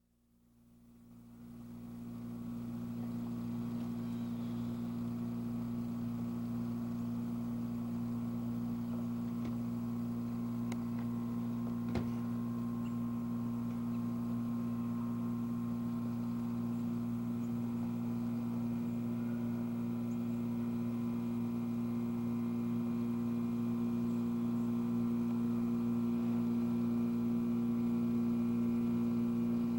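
Steady electrical hum, several even tones stacked together, fading in over the first couple of seconds and then holding level, with one faint click about twelve seconds in.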